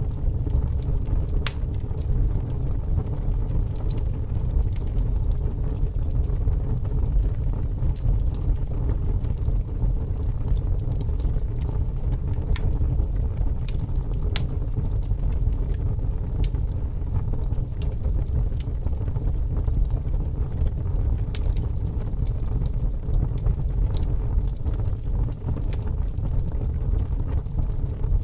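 Fire burning: a steady low rumble with sharp crackles and pops every few seconds.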